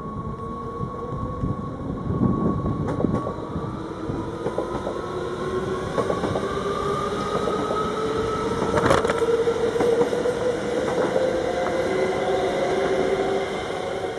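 Electric train running through a station, its traction motors whining and rising slowly in pitch as it gathers speed, with a few sharp clanks from the running gear.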